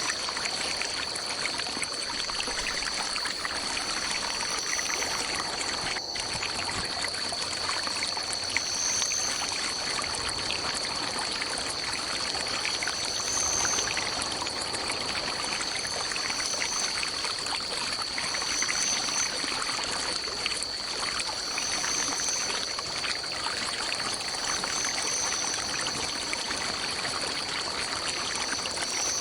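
Forest stream flowing and trickling steadily, under a continuous high-pitched insect drone, with a short high call repeating every two to three seconds.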